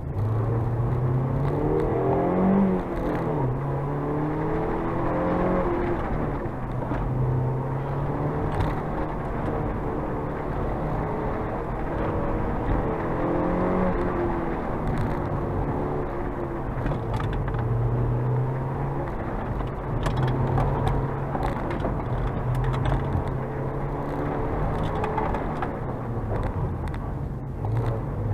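Mazda MX-5 NC1's 2.0-litre four-cylinder engine, heard from the open-top cockpit, working hard through a slalom run, its pitch climbing and dropping again and again as the driver accelerates, lifts and shifts.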